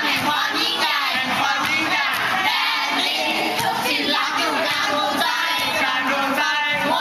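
A large group of young voices singing a school cheer song together, many voices overlapping.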